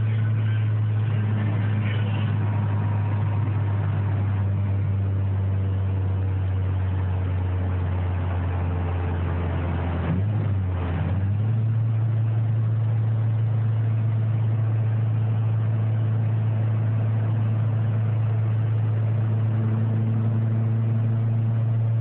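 Toyota Starlet GT's turbocharged four-cylinder engine heard from inside the cabin, running steadily under way at around 3,500 rpm. About ten seconds in, its note briefly drops and comes back, as on a gear change.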